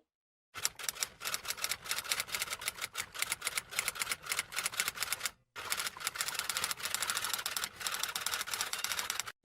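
Typewriter typing: rapid keystroke clicks in two runs, broken by a short pause about five and a half seconds in.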